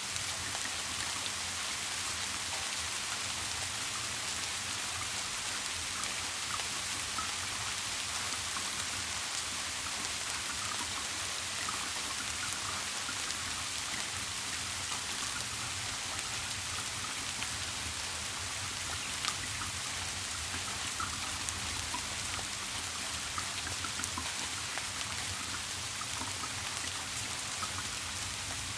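Steady rain, a continuous hiss with many small drops ticking, over a low steady hum.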